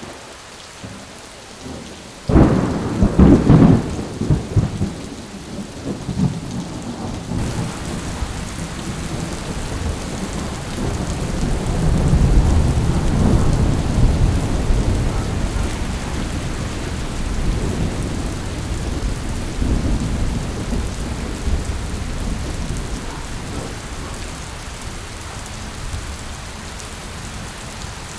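Thunderstorm: steady rain with thunder. A sudden crack of thunder about two seconds in rumbles on for several seconds, then a long rolling rumble swells and slowly fades.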